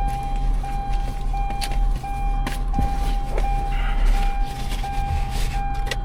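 A vehicle's warning chime beeping over and over, about three beeps every two seconds, over the low hum of the vehicle, with a few light clicks and knocks.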